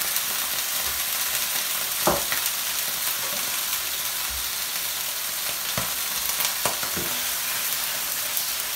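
Cod fillets sizzling in hot oil in a frying pan: a steady spattering hiss, with a sharp knock about two seconds in and a few softer knocks later.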